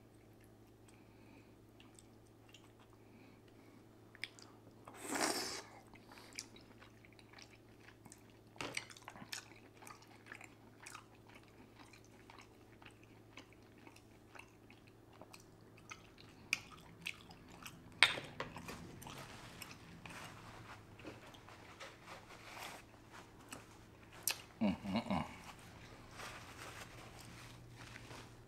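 Close-miked chewing and mouth sounds of someone eating a seafood boil: soft wet chewing with scattered small clicks and a few short, louder noisy bursts, about five seconds in, midway, and near the end, over a faint steady low hum.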